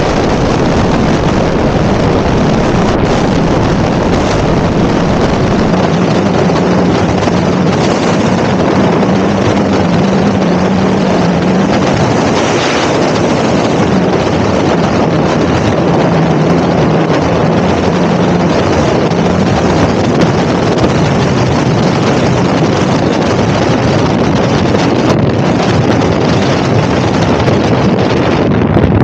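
Loud, steady wind rush over the microphone of an electric motorbike riding at high speed. A faint low hum comes and goes under it for several seconds at a time.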